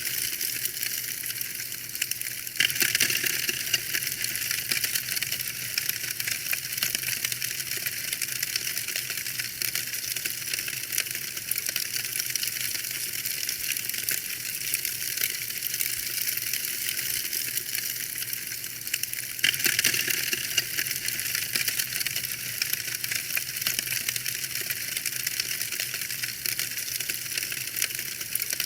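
Wood fire in a fireplace crackling, a steady stream of small pops and snaps over a soft hiss, with two louder flurries of crackles, one a few seconds in and one about two-thirds through.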